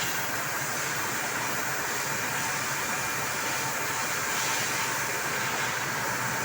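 4-axis CNC machine running on its automatic program while making chair legs: a steady mechanical whirring noise, with a thin whine that comes in about two seconds in.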